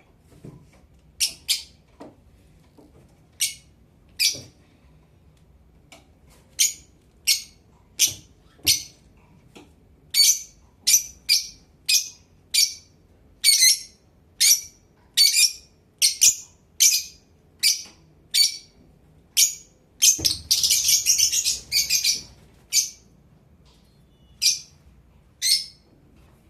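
Blue Fischer's lovebirds giving short, sharp, high chirps one after another, at first sparse and then about one or two a second. About twenty seconds in comes a rapid run of chattering that lasts about two seconds.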